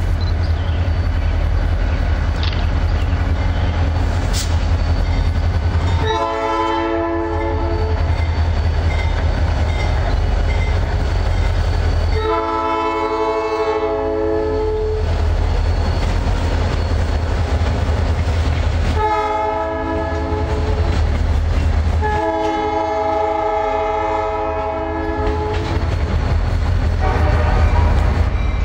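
Freight locomotive air horn sounding four separate blasts a few seconds apart (short, long, short, long), with a fifth starting near the end, over the steady low rumble of the train's diesel engines.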